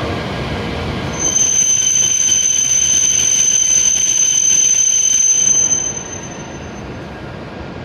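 E7-series Shinkansen trainset pulling slowly into the platform, giving a loud, steady high-pitched squeal as it brakes from about a second in. The squeal and running noise drop away about six seconds in as the train comes to a stop.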